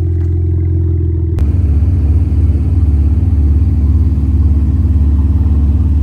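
Deep exhaust drone of cars idling with their mufflers and resonators deleted. About a second and a half in, the sound changes abruptly to a louder, pulsing idle.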